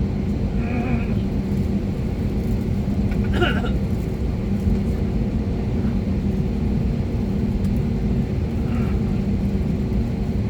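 Steady cabin noise inside an Airbus A320neo: a low rumble with a constant engine hum underneath, holding level throughout.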